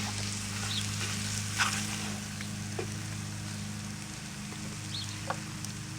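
Chicken, sausage and vegetables sizzling in a cast-iron Dutch oven as crushed-tomato sauce cooks in, with a few faint clicks. A steady low hum runs underneath.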